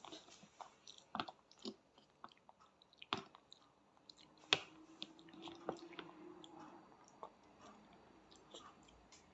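A small child quietly chewing pasta, with scattered clicks of a spoon against the plate or bowl.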